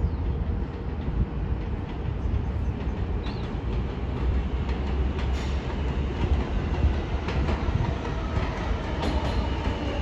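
R188 subway train running through the station with a steady low rumble and the clicking of wheels over rail joints. A thin wheel squeal creeps in near the end.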